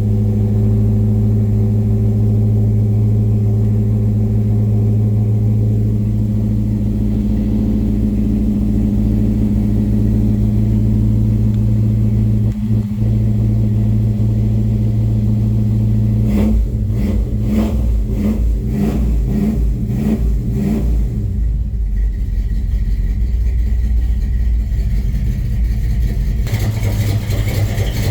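1970 Chevrolet Chevelle's engine running at a steady idle after a cold start. About 16 seconds in the steady note breaks into a run of uneven surges, then settles lower and picks back up near the end.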